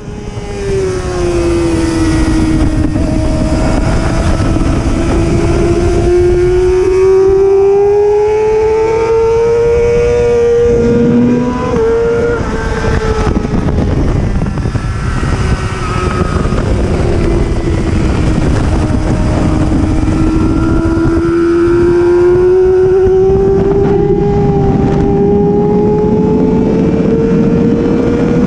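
Superbike racing motorcycle engine running hard on track with heavy wind rush. Its pitch falls near the start, climbs slowly and steadily for about ten seconds, changes briefly, sinks again near the middle and climbs steadily once more toward the end.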